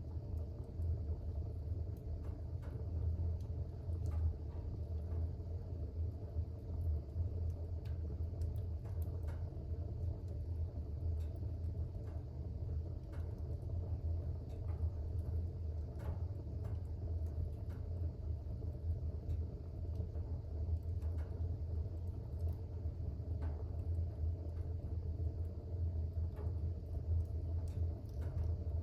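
Wood fire burning in a fireplace: a steady low rumble with faint, irregular crackles and small pops scattered throughout.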